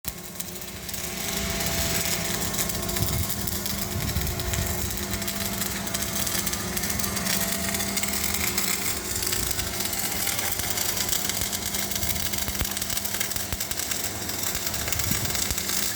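Electric arc welding: a steady crackling sizzle from the arc as an extension plate is welded onto a wheel loader bucket's side plate, with a steady machine hum underneath.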